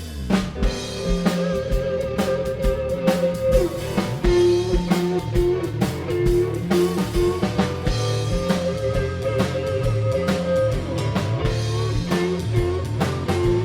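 Live rock band playing an instrumental intro: electric guitar riff over a full drum kit and bass with a steady beat, no vocals.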